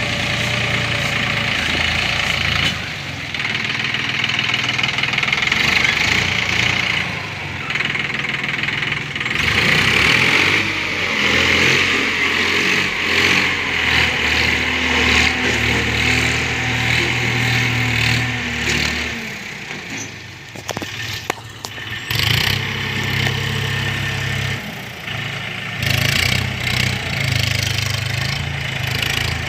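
Swaraj 963 FE tractor's diesel engine running, its pitch and loudness shifting, with a dip about twenty seconds in.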